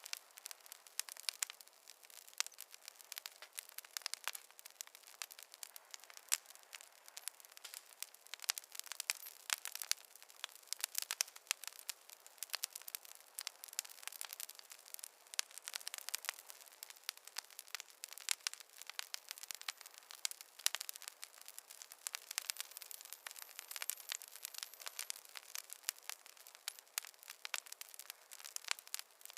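Fireplace fire crackling, with dense irregular pops and snaps. The crackle is thin and bright, with no low rumble underneath.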